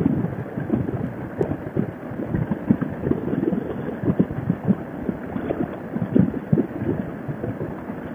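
Wind buffeting a motorcycle rider's helmet intercom microphone at highway speed: an irregular low rumble of gusts, heard through the intercom with the high end cut off.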